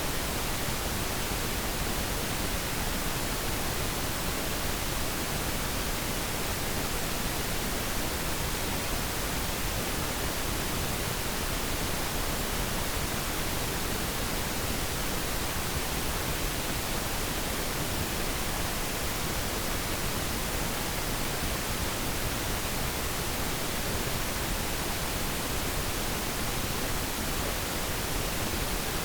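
Steady pink noise: an even, unchanging hiss across the whole range, with less treble than white noise.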